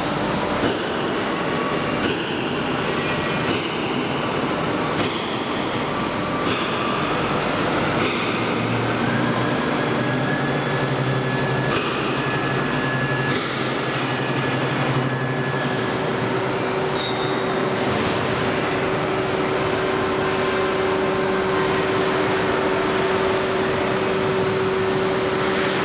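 A train running on the rails: a steady dense rumble and wheel noise, with a thin squeal through the middle and a steady hum that sets in about two-thirds of the way through.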